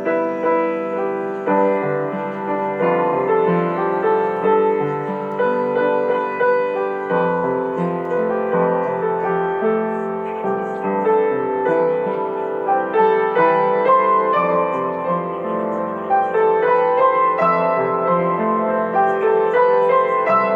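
Piano music: a steady flow of notes played continuously.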